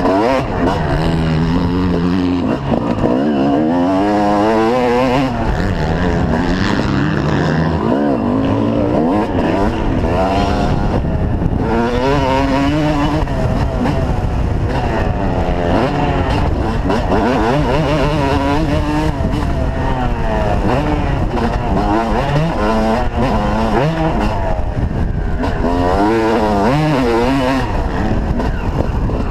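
Motocross motorcycle engine revving hard, its pitch rising and falling over and over with throttle and gear changes. It runs loud and without a break.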